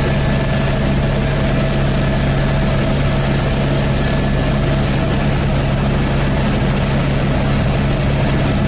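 Helicopter in flight heard from inside the cabin: a loud, steady drone with a low hum and a thin higher tone over an even rushing noise.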